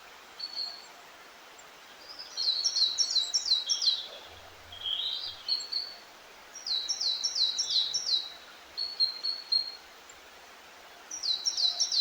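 A songbird singing a short, quick phrase of five or six high descending notes, repeated three times about four and a half seconds apart, with a few shorter whistled notes in between, over a steady faint background hiss.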